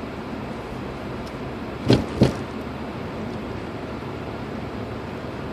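Steady road and engine noise heard inside a Lexus IS250 AWD driving on snowy roads, with two sharp knocks about two seconds in, a third of a second apart.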